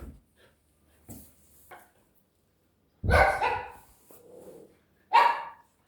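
A dog barking: two loud barks about three and five seconds in, with fainter yips before them.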